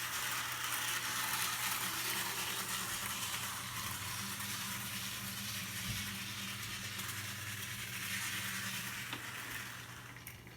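HO scale model locomotive running along its track: a steady hiss of wheels on rail with a low motor hum, fading away near the end as the train finishes its run.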